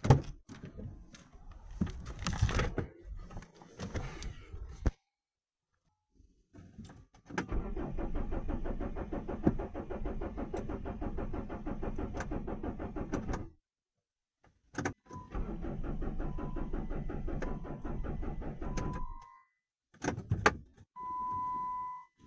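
Chrysler Grand Voyager engine being turned over by the starter in two long cranking attempts, about six seconds and then about four seconds, without firing: a no-start the owner puts down to a displaced crankshaft reluctor giving the ECU no proper signal. A steady electronic beep sounds over the second attempt and again briefly near the end, after some knocks at the start.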